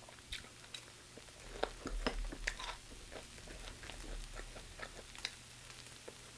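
A person chewing chicken gizzard: a run of small clicks and crunches, loudest and busiest around two seconds in.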